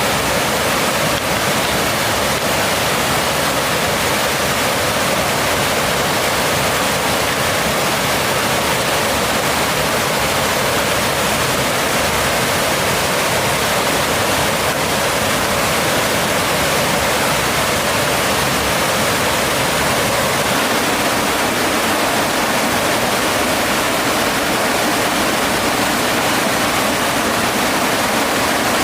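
Mountain stream water rushing, a loud steady rush with no breaks.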